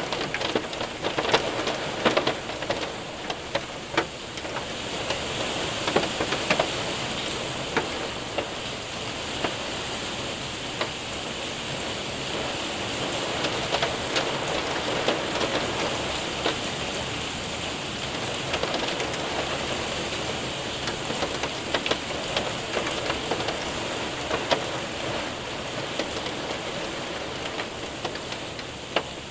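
Heavy rain mixed with hail hitting a window and roof: a steady dense hiss with many sharp ticks of individual hailstones and drops.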